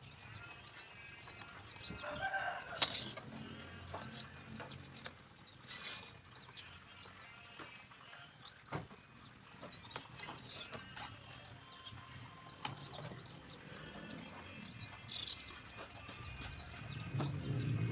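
Faint bird calls, short high chirps and some clucking, with a few sharp taps here and there.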